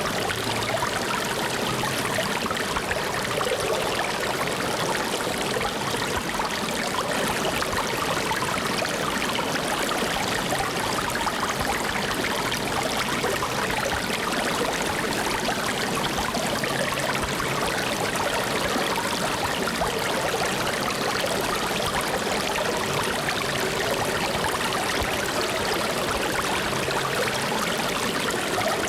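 Flowing water, like a stream, running steadily: an even, unbroken rush with no separate splashes or drops.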